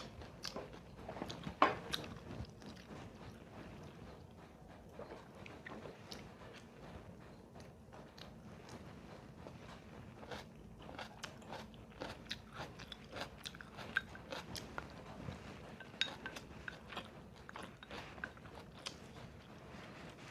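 Close-up chewing and crunching of food, with many small crisp clicks and a sharper crunch about two seconds in.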